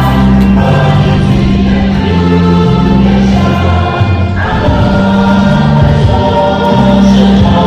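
Choir singing the university anthem over instrumental accompaniment, in long held notes.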